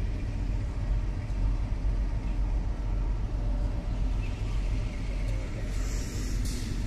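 Kalka–Shimla narrow-gauge train rolling slowly, heard from on board: a steady low rumble of the running train and its wheels on the track, with a short hiss near the end.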